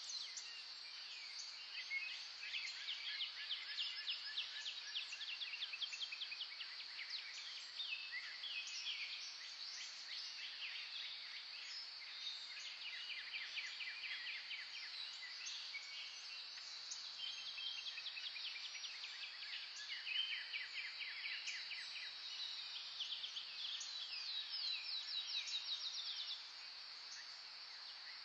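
Several wild songbirds singing together, with overlapping chirps and fast rattling trills, over a steady high-pitched hiss. A loud run of trills stops shortly before the end.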